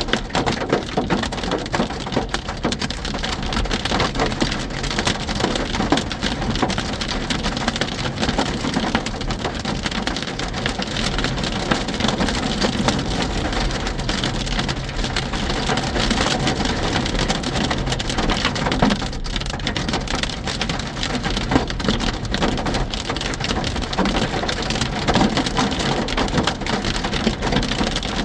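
Hail and heavy rain pelting a car's body and glass: a dense, steady clatter of many small impacts over a wash of rain.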